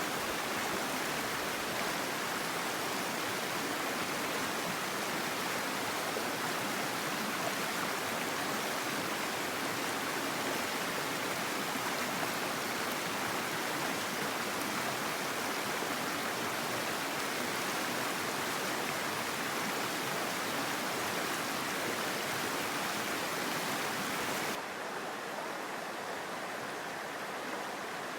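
Mountain stream running in a steady rush of water. Near the end the sound cuts abruptly to a quieter, duller flow.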